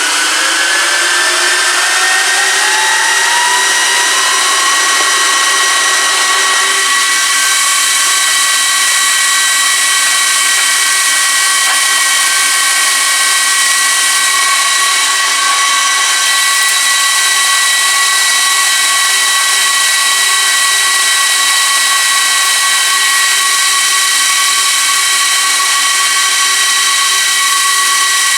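1U rack server's high-speed cooling fans spinning up to full speed: a rising whine over a rush of air that levels off about four to five seconds in, then runs as a loud, steady, high-pitched whine like jet engines.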